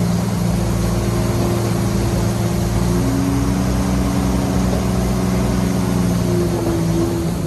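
Heavy diesel engine of earthmoving machinery running steadily, its pitch shifting slightly about three seconds in.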